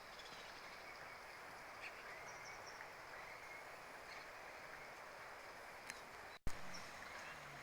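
Faint steady outdoor hiss with a few faint, short chirping calls of small birds scattered through it; the sound cuts out abruptly for an instant about six and a half seconds in.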